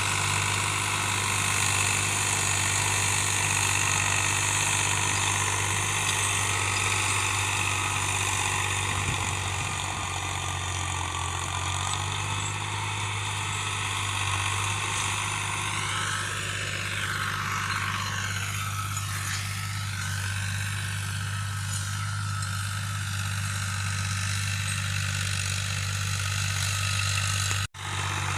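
Tractor engine running steadily with a constant low drone, the engine speed staying even throughout; the sound briefly drops out near the end.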